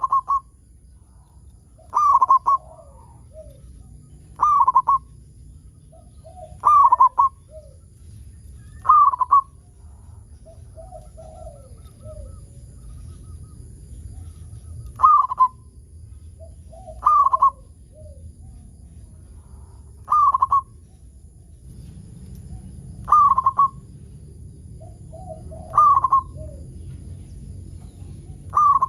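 Zebra dove (perkutut) cooing: a short call repeated about every two to three seconds, with a pause of several seconds about a third of the way through.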